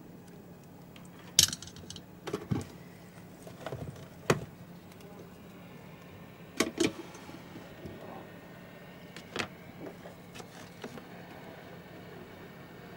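Scattered clicks and metal-and-plastic clinks of hand tools and small parts during disassembly of a projector, about a dozen in all, the loudest about a second and a half in. A steady low hum runs underneath.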